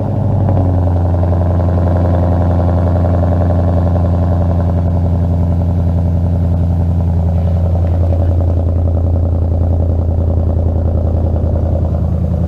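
2015 Ford Mustang GT's 5.0-litre V8 idling loud and steady through an MBRP race cat-back exhaust just after a cold start, a deep, even idle.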